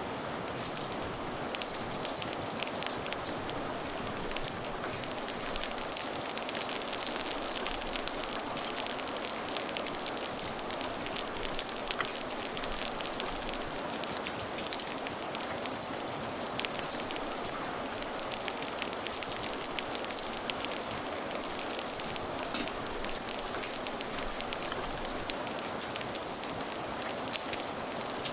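Steady rain with a crackling fire, an even hiss of rainfall dotted with many small sharp pops and crackles.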